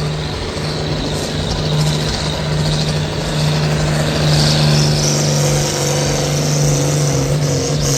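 A competition pulling vehicle's engine runs at full power under load as it drags the weight sled down the track, a loud steady drone whose pitch sags slightly near the end.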